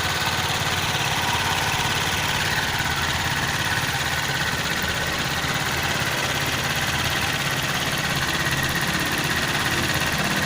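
Freshly rebuilt Viar engine idling steadily, running on its newly installed block just after a successful start.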